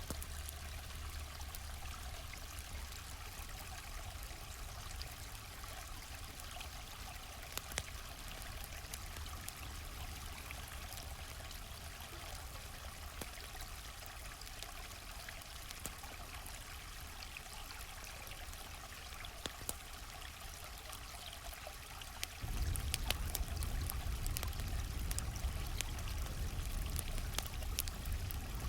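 Stream water flowing and trickling steadily, with the sharp pops and crackles of a campfire scattered through it. About twenty-two seconds in, the sound abruptly becomes louder and deeper.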